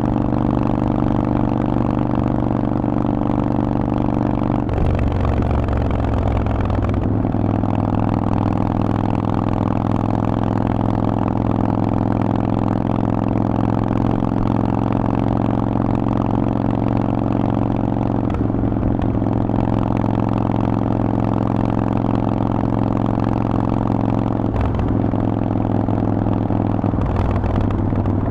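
Harley-Davidson Forty-Eight's air-cooled V-twin running through a Vance and Hines exhaust while riding, mostly holding a steady note. The engine note changes several times, around 5, 7, 18, 25 and 27 seconds in.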